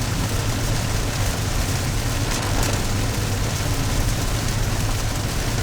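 Car driving in the rain, heard from inside the cabin: a steady hiss of rain and wet road over a low, even rumble of road and engine.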